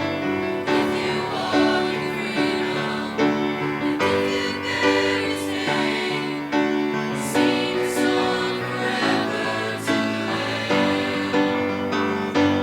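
Choir singing a gospel worship song in harmony over instrumental accompaniment.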